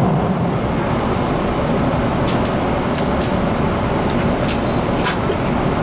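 Steady cabin noise of a Boeing 777-200ER in cruise: the even rush of airflow and engines heard inside the cabin. A few short, light clicks sound over it from about two seconds in.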